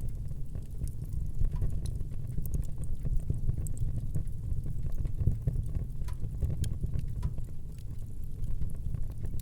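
Wood fire burning in a fireplace: a steady low rumble of the flames with frequent small crackles and pops from the burning wood scattered throughout.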